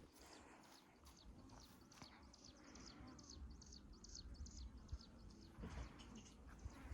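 Faint bird chirping: a quick series of short, high notes, each dropping in pitch, about three a second, that thins out near the end.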